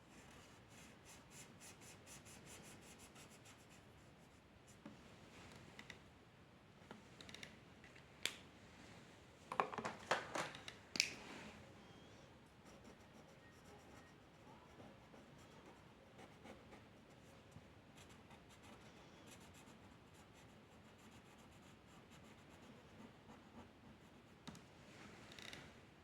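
Faint scratching of a drawing tool on paper, with a short cluster of louder clicks and scrapes about ten seconds in.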